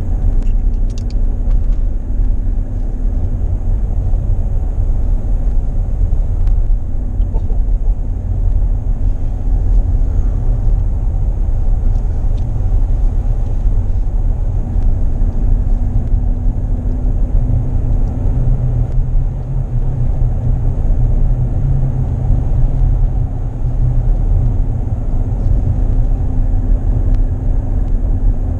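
Car driving slowly on a back road, heard from inside the cabin: a steady low rumble of tyres and engine, with a faint steady hum that fades for a few seconds midway and then returns.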